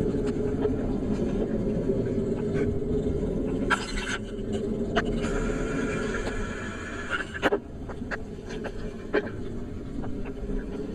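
Steady low rumble of a moving vehicle's running and road noise, with scattered light ticks and taps. About five seconds in, a high squeal lasts about two seconds.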